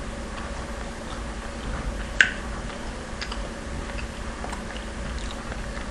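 A person chewing a mouthful of breakfast burrito, with faint scattered clicks and one sharper click about two seconds in, over a steady low hum.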